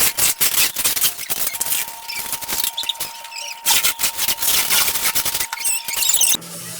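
Rapid crackling and rustling of a refrigerator's packaging being handled and pulled apart, with a faint steady high tone underneath; it stops abruptly near the end.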